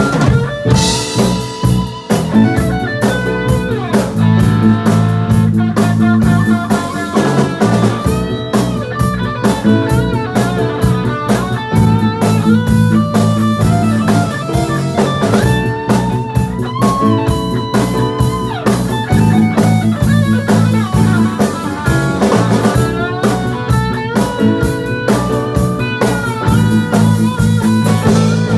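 Loud live band music through a PA: guitar playing a lead line with bent notes over a drum kit.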